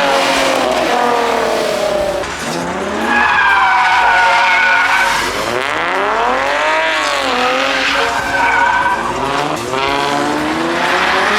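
Drift car engine revving hard, its pitch climbing and dropping again and again with one long rise and fall in the middle, over the hiss of tyres skidding and squealing as the car slides.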